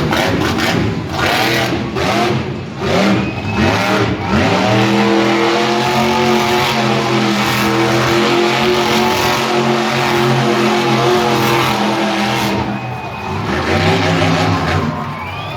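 Monster truck engine revving unevenly, then held at steady high revs for several seconds before easing off near the end.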